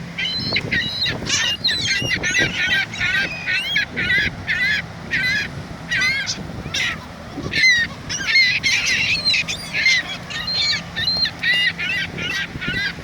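A flock of birds calling over one another, many short squawking calls in quick succession, as they crowd in to be fed bread.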